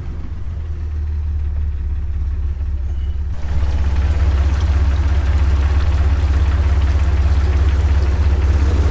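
Jeep TJ engine idling with a steady low drone, which grows louder and fuller about three seconds in.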